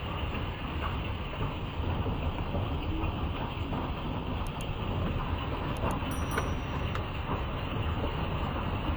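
Steady rumbling roar of a thunderstorm's wind and rain, with a few faint scattered ticks.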